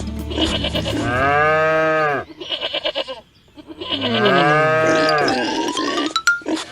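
Two long quavering bleats, like a sheep's, one about a second in and one near four seconds in, each rising and then falling in pitch. A low steady hum underneath stops about a second in.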